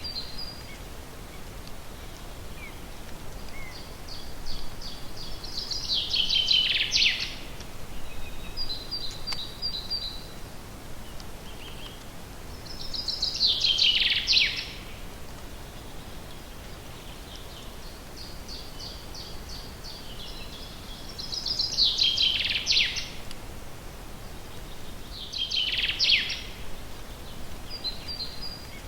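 A songbird singing in a forest, repeating the same short song about four times: each phrase is a run of quick high notes that speeds up and ends in a falling flourish. There is a steady background hiss of forest ambience throughout.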